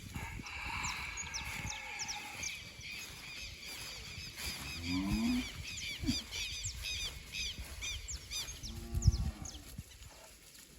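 Cattle mooing: two low calls, one about five seconds in and a louder one about nine seconds in, over a rapid high chirping.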